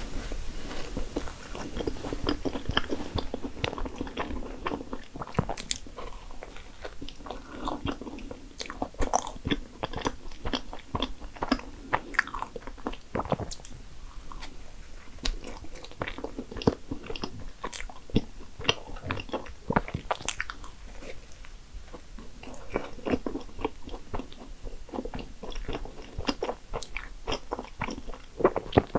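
A person biting into a cream-filled maritozzo (soft brioche bun with whipped cream) and chewing it, with many short mouth clicks and smacks.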